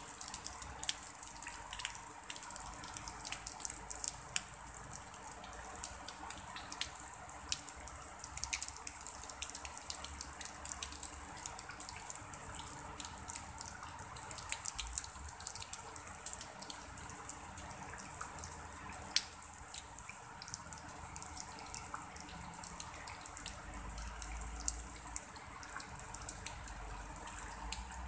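Light drizzle falling on a pond and wet grass: a steady high hiss dotted with many small, irregular drop ticks.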